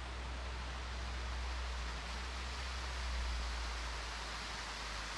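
Steady rushing wind with a low rumble of wind buffeting the microphone; the rumble eases near the end.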